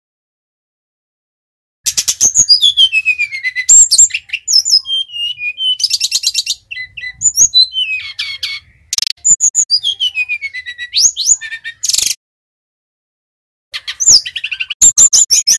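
Sikatan rimba dada coklat (Bali jungle flycatcher, 'SRDC') singing: loud, fast phrases of clear whistles, trills and sweeping notes that slide down in pitch. The song starts about two seconds in and breaks off briefly near the end before resuming.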